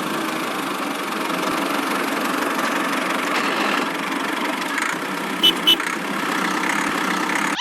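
A machine running with a steady, dense mechanical drone. Two short sharp clicks come a little after five seconds in.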